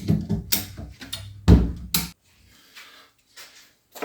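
Ratchet strap being cranked tight, a quick series of metallic clicks and clunks with one louder clunk about one and a half seconds in, as it pulls a compressed coil-over strut down. The sound cuts off after about two seconds.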